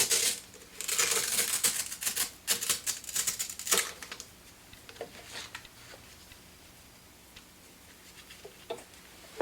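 Steel shear blade scraping against the spinning abrasive disc of a Scimech Flathone shear-sharpening machine for about four seconds, then only a few small clicks of handling over the machine's faint hum.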